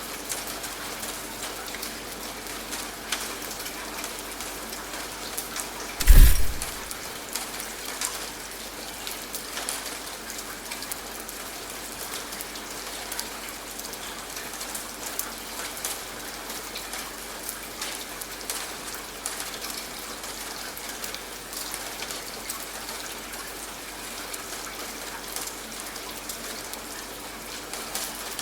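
Steady rain falling on a hard surface, with scattered sharper drop ticks. About six seconds in comes a single loud, deep thump that dies away within a second.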